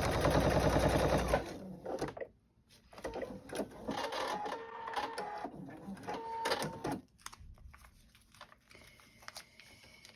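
Sewing machine stitching through a paper-pieced quilt block at speed, stopping about a second and a half in. After a short pause come a few slower, quieter runs of stitching and scattered clicks.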